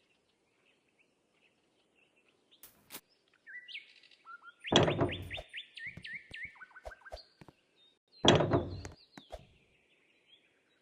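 Birds chirping in runs of quick, falling notes, interrupted twice by a loud, short burst of noise about five and eight seconds in.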